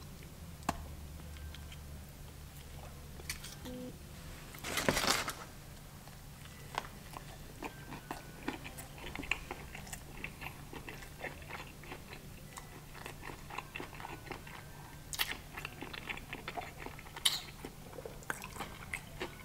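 A crunchy bite into a crispy fried flounder fish sandwich about five seconds in, followed by chewing made up of many small crunches.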